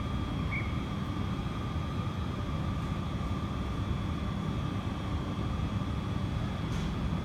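Electric passenger train running, a steady low rumble with a faint, even whine over it.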